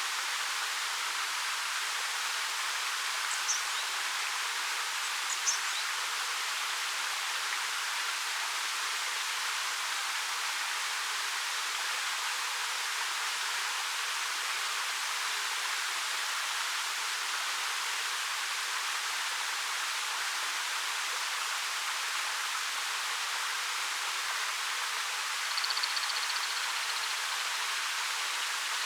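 Steady rush of a 13-metre waterfall, an even hiss with little low rumble. A small bird gives two brief high chirps a few seconds in and a short high trill near the end.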